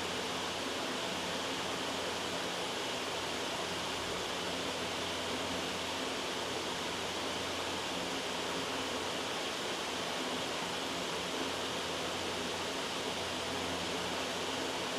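Steady white noise: an even, unchanging hiss across the whole range, with a faint low hum beneath it.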